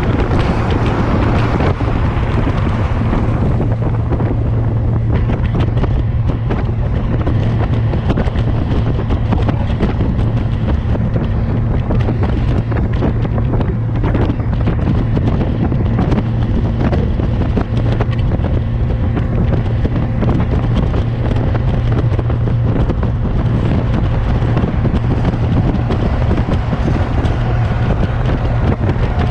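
Motorcycle engine running at a steady speed while riding, a constant low drone under heavy wind buffeting on the microphone.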